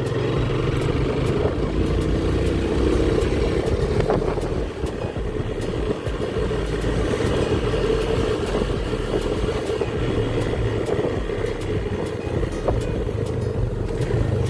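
Small motorcycle riding along: the engine runs steadily with small changes in pitch, under constant road and wind noise.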